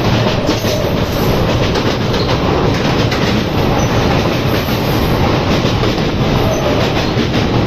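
Passenger train running at speed, heard from an open coach door: a steady rumble and rush with the wheels clicking over the track.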